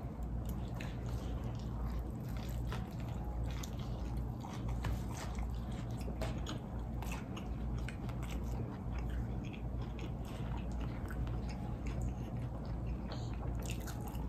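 A person biting into and chewing a fried chicken sandwich: a steady run of small crunches and chewing sounds through the whole stretch.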